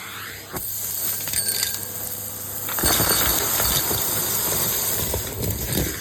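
Numatic Henry cylinder vacuum cleaner running, air hissing through the hose as it sucks up small hard bits that click and rattle through it. It gets louder about three seconds in.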